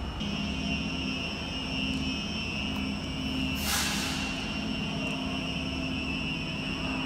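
Train at a station: a steady high-pitched whine over a lower hum, with a short burst of hiss about halfway through.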